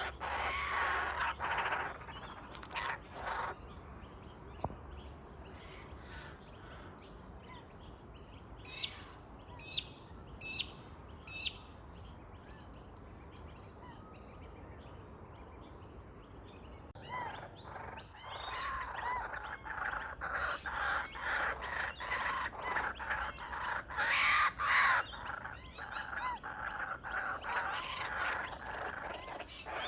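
Birds calling outdoors: a few calls at the start, four sharp separate calls a little before halfway, then from a little past halfway a long run of rapid, repeated calls.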